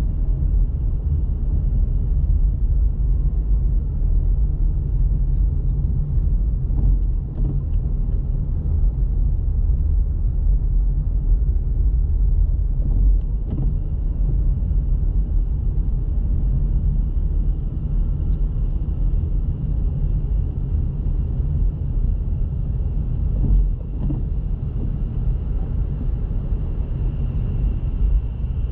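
A car driving: steady low rumble of engine and tyre noise, with a faint thin high tone running under it and a few soft knocks from bumps.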